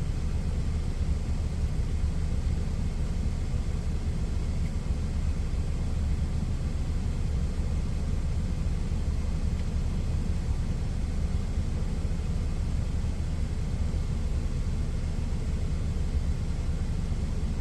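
Steady low rumble of a semi truck's idling diesel engine, unchanging throughout.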